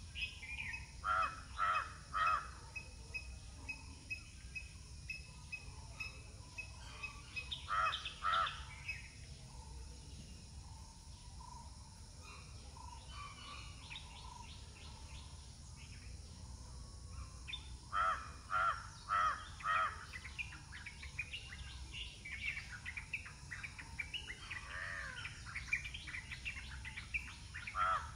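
Birds calling: loud short calls in runs of two to four, several seconds apart, with fainter bird chirps between them over a low steady background rumble.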